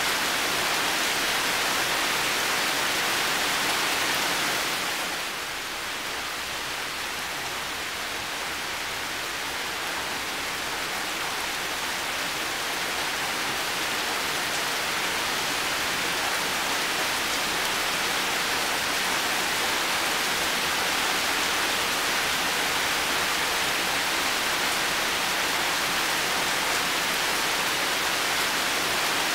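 Heavy rain falling steadily, a dense even hiss of countless drops. It eases a little about five seconds in, then slowly builds back to full strength.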